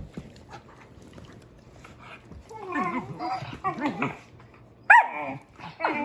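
Puppy whining and yelping while its mother mouths its head: a run of wavering cries, then a sharp high yelp that falls in pitch about five seconds in, and another cry near the end.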